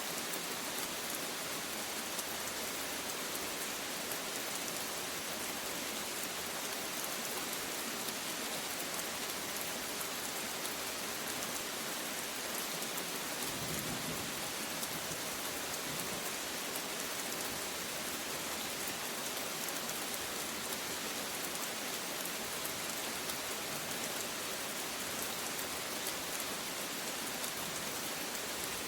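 Steady rain falling and pattering on surfaces, with a brief low rumble of thunder about halfway through.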